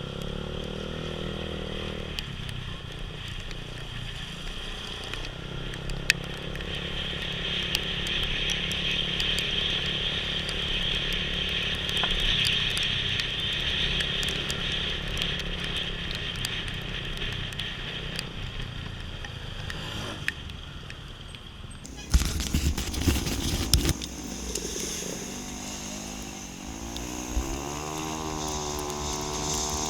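Motorcycle engine running while riding, with a steady hiss of wind and rain. Two-thirds of the way through comes a loud rushing burst lasting about two seconds, and near the end the engine pitch rises and falls as the throttle is worked.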